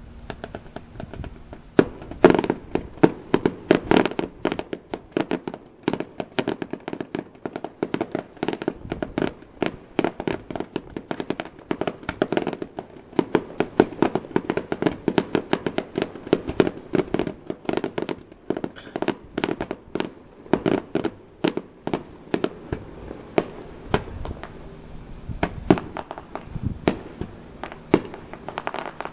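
Aerial fireworks show: a rapid, nearly continuous string of sharp bangs that starts about two seconds in as a new wave of shells is fired, with the heaviest volley near the start.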